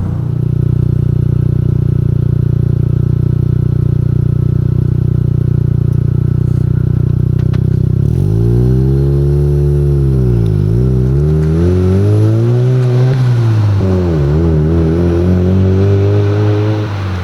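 Mazda RX-7 FC3S Turbo II's turbocharged 13B two-rotor rotary engine through a Fujitsubo Legalis R exhaust, running at a steady speed for about eight seconds. It is then revved up and let fall several times, the pitch rising and dropping with each rev.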